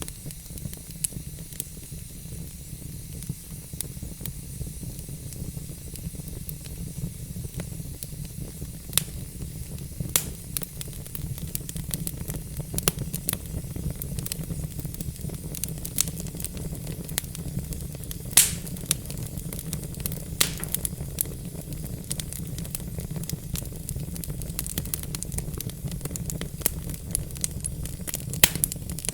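Burning logs in a fireplace crackling, with a steady low rumble and hiss of the flames and irregular sharp pops, one louder than the rest about two-thirds of the way through.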